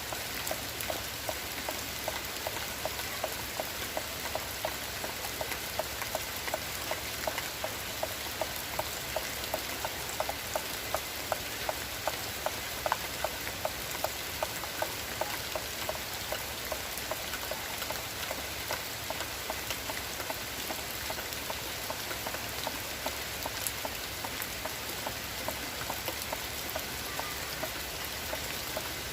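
Steady rain falling, with a regular tapping about two or three times a second that fades out about halfway through.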